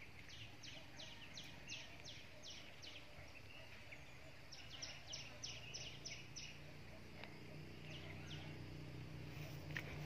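A bird singing runs of short, quickly falling whistled notes, about four a second, in two bursts of seven or eight notes each.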